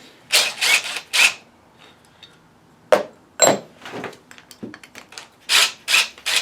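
Parts of a winch's planetary gear set being handled: short rubbing, scraping strokes in small groups, with a few sharp clicks of metal parts between them.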